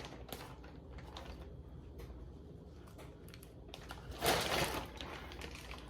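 Small clicks and knocks of food handling as pineapple spears are put onto a pan of chicken legs, with a louder rustling burst about four seconds in.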